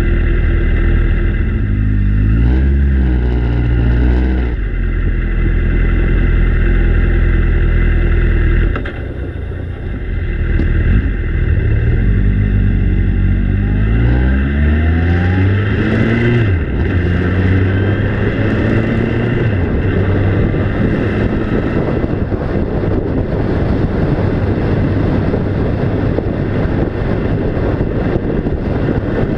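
Vehicle engine running under way, its pitch climbing and dropping several times as it works through the gears. About halfway through, a steady rushing noise takes over.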